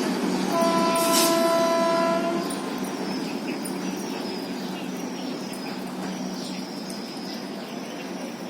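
A passing train with a horn sounding once for about two seconds near the start over the rumble of the train. The rumble then fades steadily as the Vande Bharat Express moves away.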